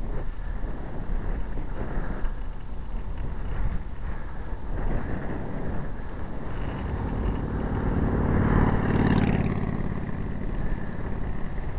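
Wind rushing over the microphone of a camera on a moving road bike, with a motor vehicle passing close by about eight seconds in, its engine note and tyre hiss swelling and then fading.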